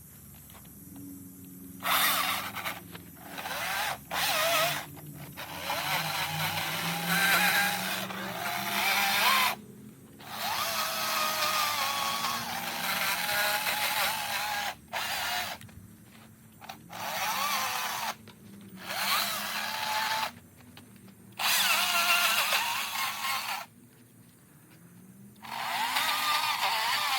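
Chainsaw carving a block of eastern red cedar, the saw revved into the wood in repeated bursts of one to three seconds with quieter stretches between.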